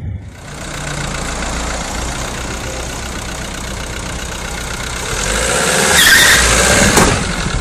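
Car engine running with the bonnet open, getting louder about five seconds in and peaking around six to seven seconds, with a brief high squeal near the peak.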